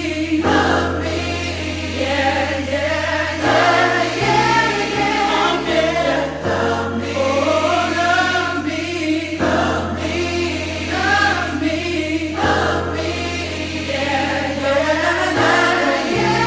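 Choral music: a choir singing sustained, slowly changing chords over steady low bass notes that shift every few seconds.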